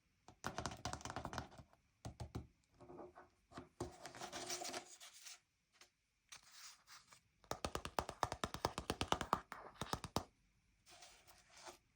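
Hands working a paper sticker book: bursts of paper rustling and scratchy rubbing, with short pauses between, and a fast run of short scratches about two-thirds of the way through.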